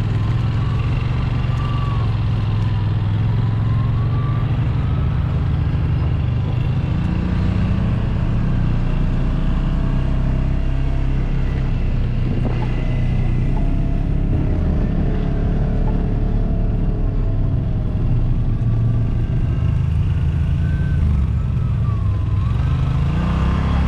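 Side-by-side UTV engine running under way on a trail. Its pitch rises and falls as the throttle changes.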